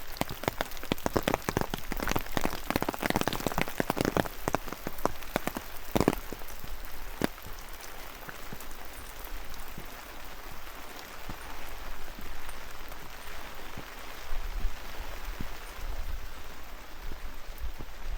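Rain falling: for the first several seconds a dense, irregular patter of drops hitting close by, then a steady hiss of rain.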